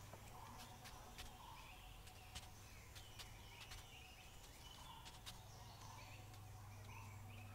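Near silence with faint birds chirping in short calls and a low steady hum underneath, with a few faint ticks.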